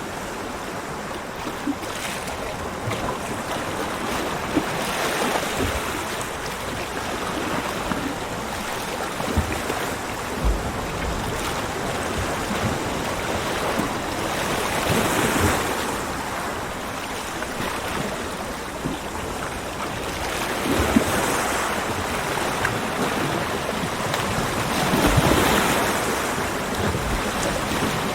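Ocean surf: waves breaking and washing up the beach, the rush swelling and easing every five seconds or so, with the biggest breakers about halfway through and near the end.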